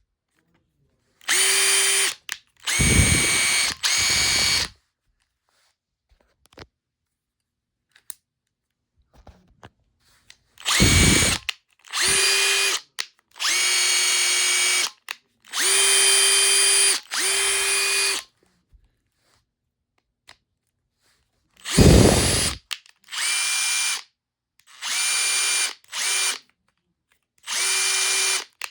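Freshly overhauled Makita TP141D cordless 4-mode impact driver run free in short bursts of one to two seconds, the trigger pulled and released about ten times, with a steady motor whine; a few bursts carry a heavier low rattle.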